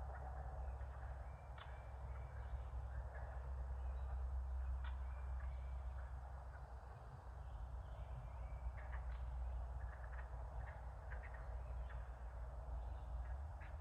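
Outdoor wildlife ambience: a steady low rumble under a stream of short bird chirps and calls scattered throughout.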